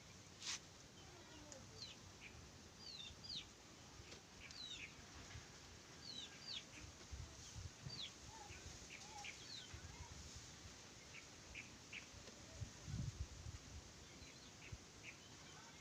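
Faint chirping of small birds: many short, quick calls scattered throughout, with a few soft low thuds in between.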